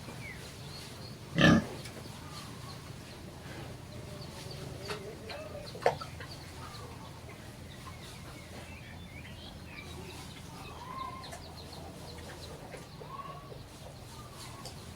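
Farmyard animals: chickens clucking faintly now and then over a steady low background, with one loud short sound about a second and a half in and a sharp click near the middle.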